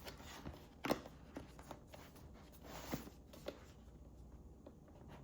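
Cardboard box being handled and pried open by hand: a sharp tap about a second in, light ticks and scrapes, and a short rubbing hiss near the middle as the fitted lid and tab are worked loose.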